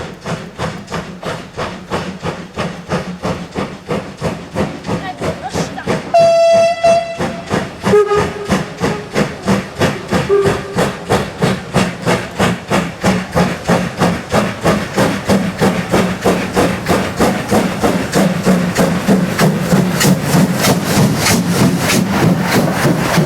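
Class 03 steam locomotive passing under steam, its exhaust beating in an even rapid rhythm. It gives a whistle blast lasting about a second about six seconds in, then a lower, shorter whistle about two seconds later.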